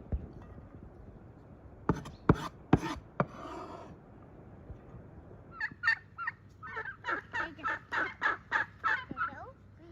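Four sharp chopping strikes of a knife on a board, then a farmyard bird calling in a quick run of repeated notes for about four seconds.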